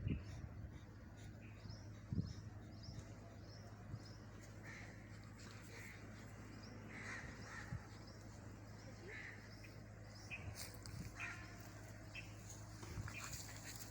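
Faint cawing of crows at scattered moments, over a run of small high-pitched chirps repeating evenly and a steady low hum.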